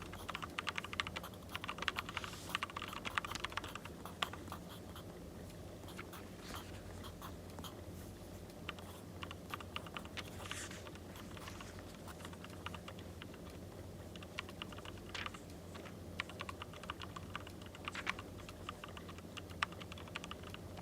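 Writing on paper: quick scratching, tapping strokes, dense in the first few seconds and again near the end, with a wood fire crackling in the background, its occasional sharper pops over a steady low hum.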